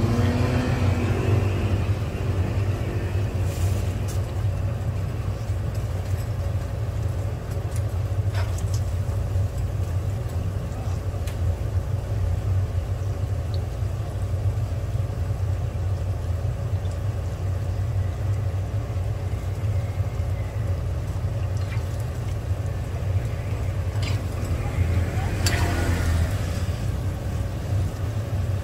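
Hotteok sizzling as they fry in shallow oil on a griddle, under a steady low rumble. A few sharp clicks of metal tongs against the pancakes and griddle.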